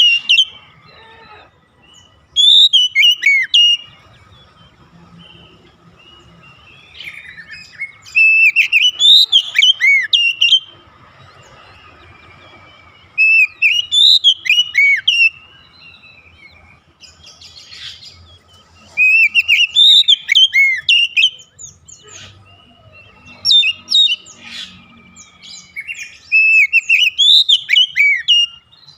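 Oriental magpie-robin (kacer) singing: about six loud phrases of quick, sharply curving notes, with pauses of a couple of seconds between them.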